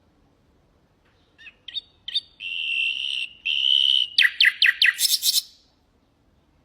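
Nightingale singing one song phrase: a few short rising notes, two long steady whistled notes, then a quick series of about six down-slurred notes ending in a fast rattling trill.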